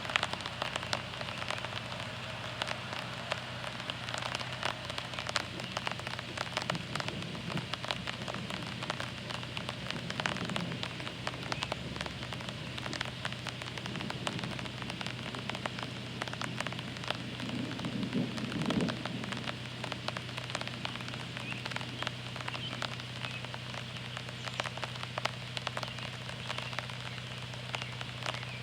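Steady rain from a thunderstorm, a dense patter of drops hitting surfaces.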